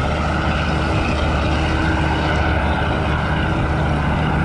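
Steady, loud drone of an aircraft engine running, with a constant low hum and no change in pitch or level.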